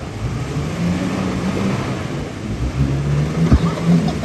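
Two-wheel-drive pickup truck engine revving under load, its pitch rising and falling, while it backs out of a deep mud hole. There is a steady hiss under the engine and a single sharp knock near the end.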